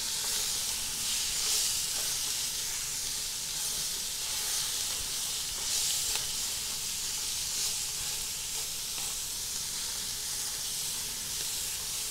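Chopped cabbage frying in hot olive oil in a nonstick pot with a steady sizzle, while a spatula stirs it with faint scraping ticks.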